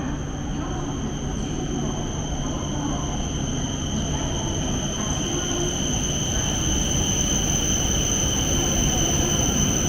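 Cabin noise of an E4 series Shinkansen running: a steady rumble with a thin, steady high whine, growing gradually louder.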